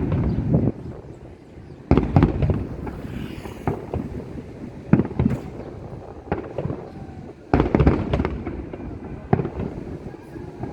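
Aerial fireworks bursting: a string of sharp booms with echoing tails, heaviest in two volleys about two seconds in and near the eight-second mark, with a brief faint crackle between them.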